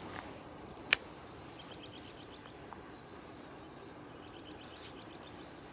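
A small songbird calls faintly in two short runs of quick, high chirps over steady low outdoor noise. A single sharp click about a second in is the loudest sound.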